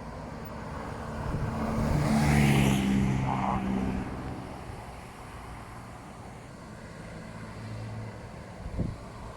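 A motor vehicle drives past, its engine growing louder over about two seconds and then fading away, with steady wind noise underneath.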